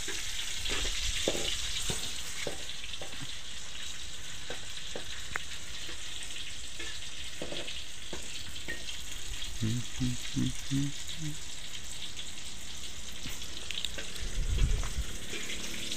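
Red chilies frying in oil in a steel wok: a steady sizzle, with a few light knocks.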